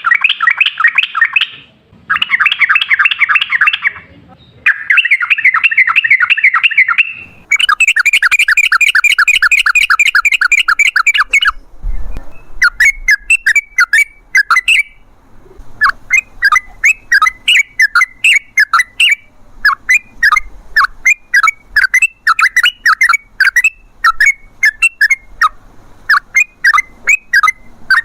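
Yellow-vented bulbul (trucukan) singing: blocks of fast bubbling trills, one long unbroken rolling run near the middle, then a string of short separate chirping phrases.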